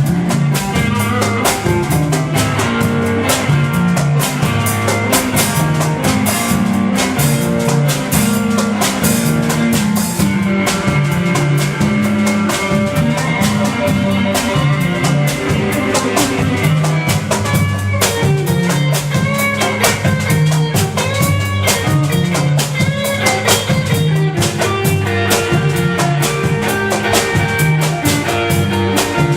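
Band music with guitar, a bass line and a drum kit keeping a steady beat, with no singing.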